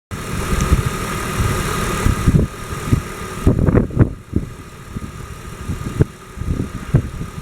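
BMW M54 2.2-litre straight-six engine running at idle. It is louder for the first couple of seconds, with a steady high whine that drops away about three and a half seconds in, and irregular low thumps run throughout.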